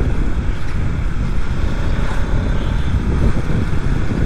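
Steady wind rush on the rider's microphone, with KTM motorcycle engine and road noise beneath, while riding.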